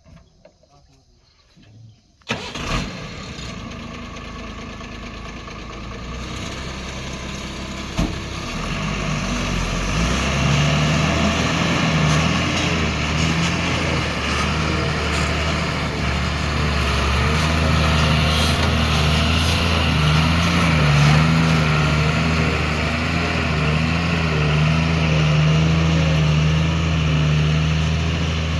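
Heavy diesel engine of a working machine: it comes in suddenly about two seconds in and then runs with a steady low drone. It grows louder about ten seconds in and holds there, with a single sharp knock around eight seconds.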